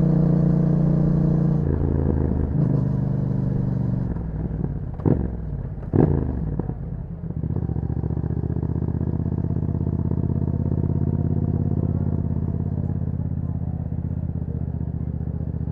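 2021 Yamaha MT-07's parallel-twin engine through an Akrapovic exhaust: running at steady revs with a few drops in pitch, then two quick throttle blips about five and six seconds in, after which it settles to a steady idle.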